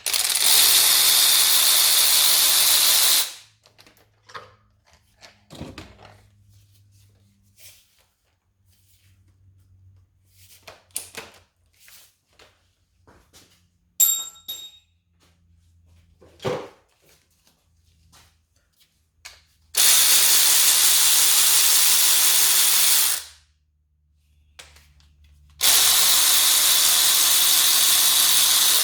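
Power tool running in three bursts of about three seconds each, loosening engine fasteners during cylinder-head removal. Light clicks and knocks of handled tools and parts fall between the bursts.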